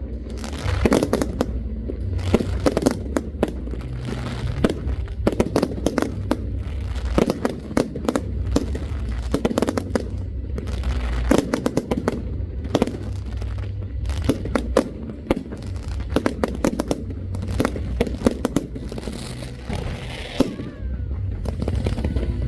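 Fireworks going off in a rapid, irregular string of sharp bangs and crackles, over a steady low rumble.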